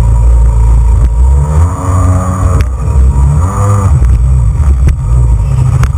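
Jet ski engine running loud with a heavy low rumble, its pitch rising and falling twice as the throttle changes.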